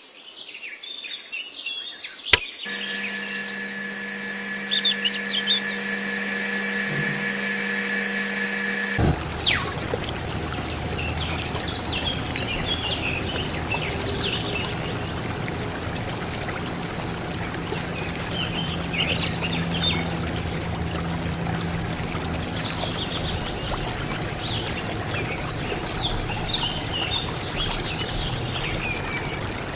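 Birds chirping over a steady background noise, with a steady hum under them from a few seconds in that cuts off sharply about nine seconds in.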